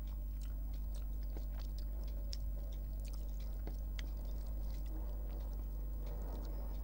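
Close-up sounds of a person chewing a mouthful of rice and curry, with scattered soft wet clicks and smacks of the mouth. A steady low hum sits underneath.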